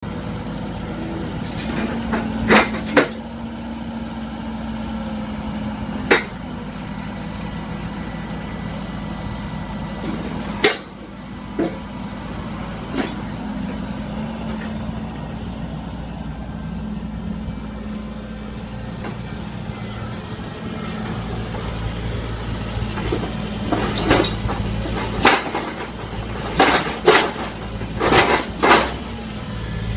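Mini bored-pile drilling rig (TESCAR CF2.5) running steadily at work, with sharp knocks now and then. The knocks come in a quick cluster near the end.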